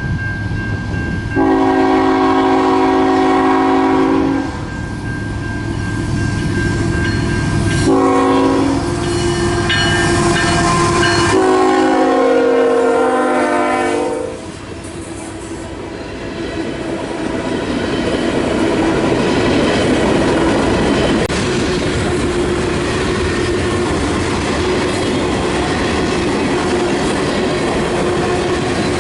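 A locomotive's multi-note air horn sounds three blasts, the last ending about 14 seconds in. The train then rolls by with a steady rumble and the clickety-clack of wheels over rail joints.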